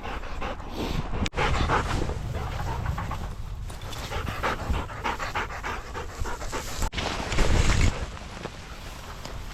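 A dog panting close by, with wind buffeting the microphone as a low rumble. The rumble grows loudest briefly about three-quarters of the way through.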